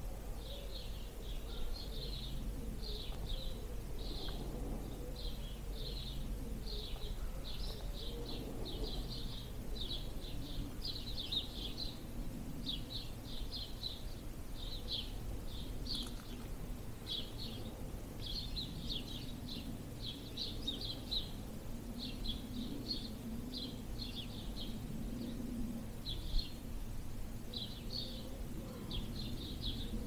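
Songbirds chirping in short, quick bursts that repeat one to two times a second, over a steady low rumble of wind on the microphone.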